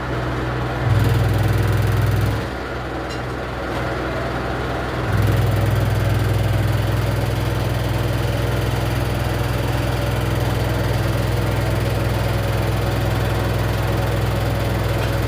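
Samsung washer-dryer running with a loud, steady low hum. It grows louder about a second in, drops back after another second or so, then comes back louder about five seconds in and holds. The hum is the abnormal noise the owner points to at the side of the machine.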